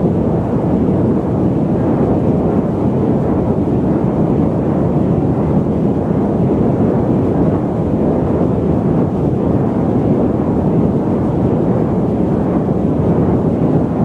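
Loud, steady static noise, a deep, dull hiss with no pitch or rhythm, its weight sitting low and little in the treble.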